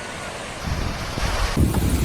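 Storm wind buffeting the microphone over a steady rushing noise. Heavy gusts set in about half a second in and grow stronger near the end.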